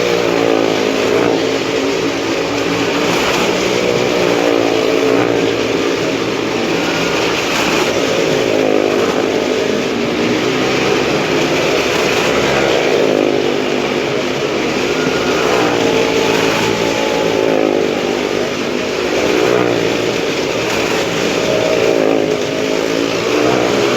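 Motorcycle and car engines running hard as they circle the wall of a motordrome, the engine note rising and falling in waves every few seconds.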